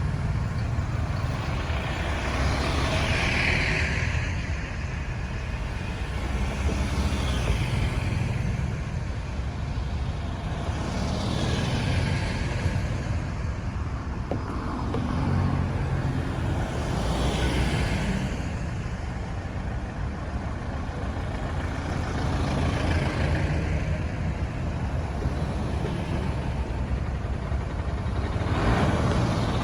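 Busy road traffic: a steady low rumble of engines and tyres, with a vehicle swishing past about every four to six seconds.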